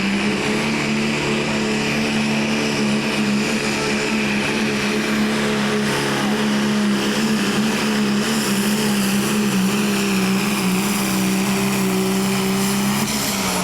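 Diesel pulling truck or tractor engine running hard at high revs under load, holding a steady pitch. The pitch drops near the end as the throttle comes off.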